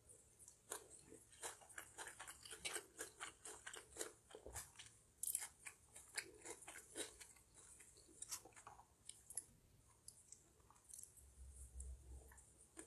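Faint, close-miked chewing of a mouthful of stir-fried Maggi instant noodles: a steady run of short, soft mouth clicks and crunches.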